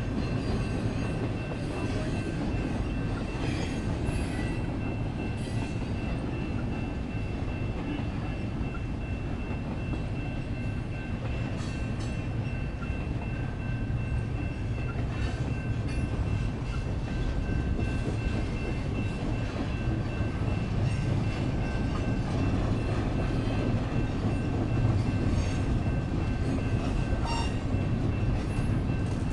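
Intermodal freight train's cars rolling past, a steady low rumble of steel wheels on rail. A thin, high wheel squeal comes and goes throughout.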